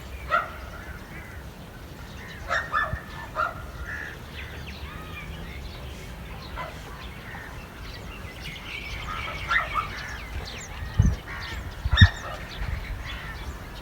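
Domestic poultry calling in short, scattered calls, with two dull thumps near the end.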